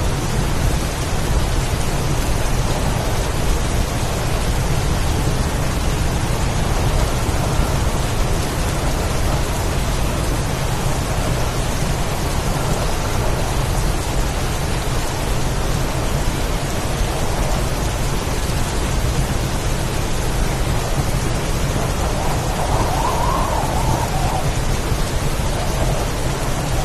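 Heavy rain pouring steadily, with a constant low rumble of storm wind underneath.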